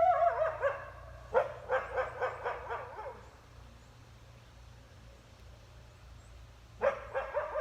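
Wolf vocalising: a falling howl trails off at the start, then about a second and a half in comes a rapid run of yips lasting under two seconds. After a pause, near the end, another burst of yips leads into a new howl.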